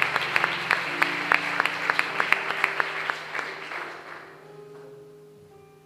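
Audience applauding; the claps thin out and die away about four seconds in. Soft held instrument notes sound underneath, with a few higher notes near the end.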